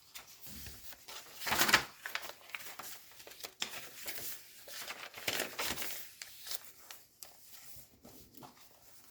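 Paper pages of a thick handmade journal being turned and handled, the paper rustling and crinkling. There are two louder page turns, one about a second and a half in and another about five and a half seconds in.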